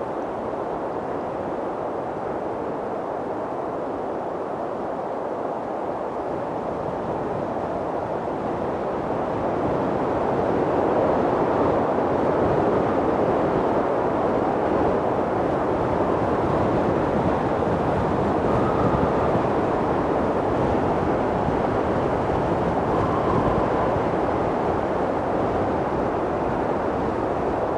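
Strong mountain wind blowing as a steady, dense rush that swells louder about ten seconds in and holds there.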